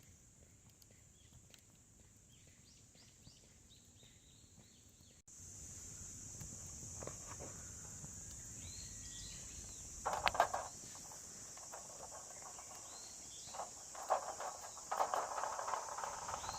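Outdoor ambience: a steady high insect drone with bird chirps, the background growing louder about five seconds in. A few short, louder knocks or rustles come about ten seconds in and near the end.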